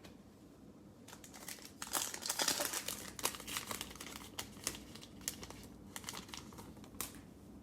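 Cellophane wrapper of a trading-card pack crinkling and tearing as it is opened by hand: a run of crackles, thickest about two seconds in, thinning out near the end.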